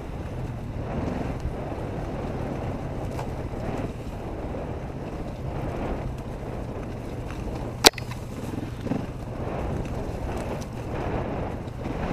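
Dirt bike engine running at a fairly steady pitch, mixed with wind rushing over the microphone, and a single sharp knock about eight seconds in.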